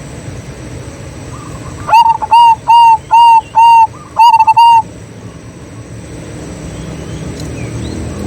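Zebra dove calling: a quick run of about six clear, evenly spaced cooing notes, ending in a faster cluster, starting about two seconds in and lasting under three seconds, over a steady low background rumble.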